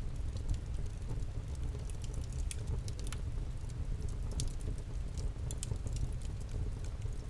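Wood campfire crackling: irregular sharp pops and snaps, a few a second, over a steady low rumble.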